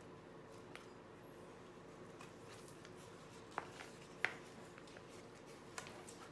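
Quiet room tone with a steady low hum, broken by four short, soft clicks and taps, the loudest about four seconds in: planner supplies being picked up and handled at a desk.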